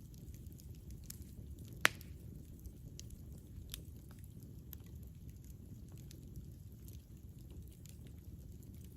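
Campfire burning: a low steady rumble of flame with scattered crackles, and one loud sharp pop about two seconds in.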